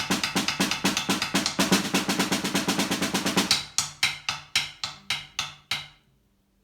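Solo snare drum playing a dense, even run of strokes that about three and a half seconds in opens out into separate strokes roughly three a second, then stops just before six seconds in: the close of a snare-drum piece depicting a train.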